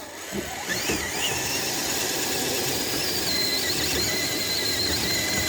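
Electric motor and gears of a radio-controlled crawler truck whining, with a high thin whine that rises about a second in and then holds steady.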